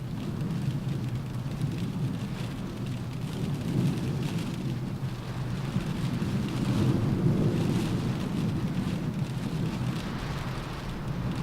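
Rain falling on a car roof, with a low, steady rumble of wind underneath that swells about two-thirds of the way through and then eases.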